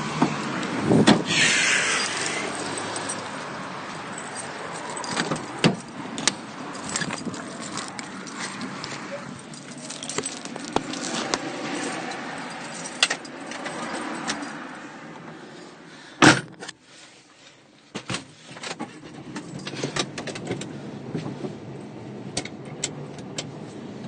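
Street traffic noise with passing cars, over which come scattered clicks and rattles of things being handled, and a single sharp knock about 16 seconds in.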